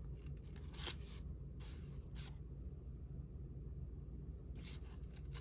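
Soft rustling of paper pieces being handled, a few brief brushes and shuffles over a low steady hum.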